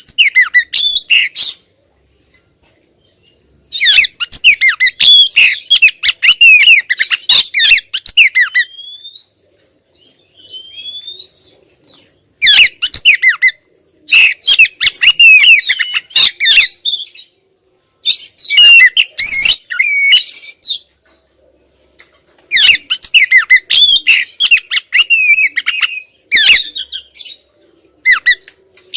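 Oriental magpie-robin (kacer) singing in loud bouts of fast, varied chattering song mixed with harsh clicks, each bout a few seconds long, with brief pauses and a few soft rising whistles between them.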